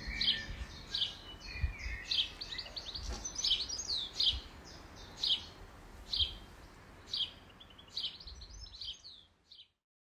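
Garden birds chirping, with short high calls repeated about once a second, fading out near the end.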